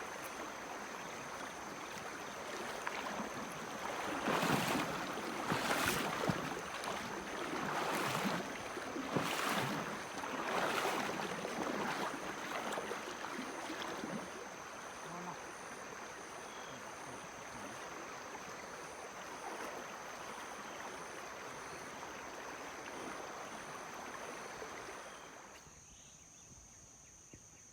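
Flowing creek water, a steady rush with several louder surges in the first half, dropping away abruptly near the end. A thin steady high-pitched tone runs underneath.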